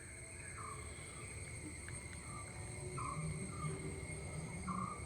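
Faint outdoor ambience: a steady high-pitched insect drone, with short animal calls repeating every second or so.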